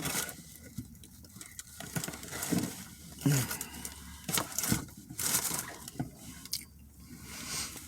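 Sandwich wrapper rustling and crinkling in short, irregular bursts as the food is handled.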